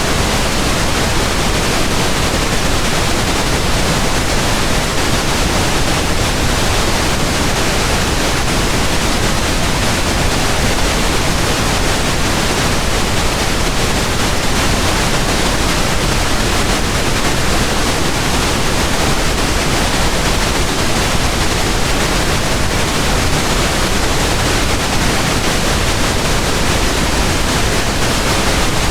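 Pink noise: a steady, even hiss across all pitches, fuller in the lows than white noise, unchanging throughout.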